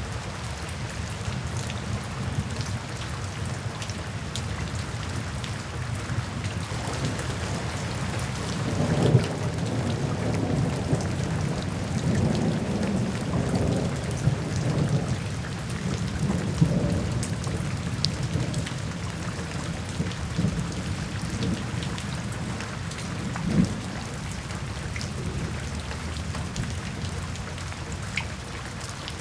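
Steady rain falling, with a long roll of thunder that builds from about six seconds in and fades out over the next ten seconds or so, and a smaller rumble later on.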